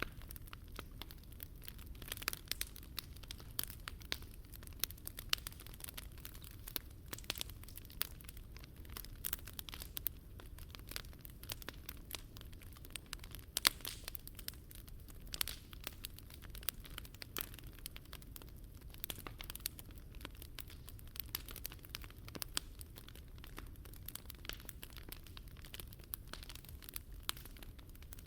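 Wood fire burning in a Picogrill 398 fire pit, crackling with many irregular sharp pops over a steady low rumble; one pop about halfway through is louder than the rest.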